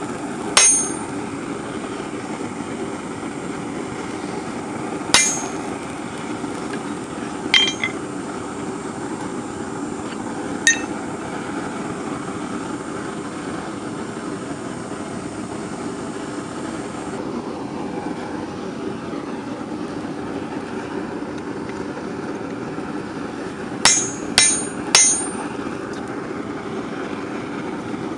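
Blacksmith's hammer blows ringing on steel at the anvil: a few single blows spread out, then a quick run of three near the end, over the steady rushing of the forge.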